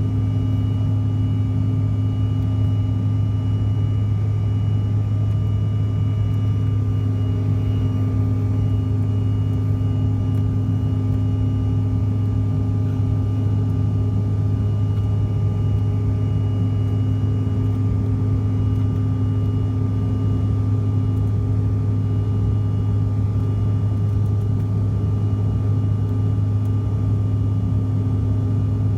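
Steady engine drone of a CRJ700 airliner's rear-mounted General Electric CF34 turbofans heard inside the passenger cabin in flight: a constant deep hum with a faint high whine above it, unchanging.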